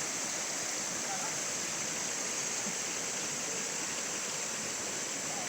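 Steady outdoor ambience: an even rushing noise with a continuous high hiss over it and no distinct events.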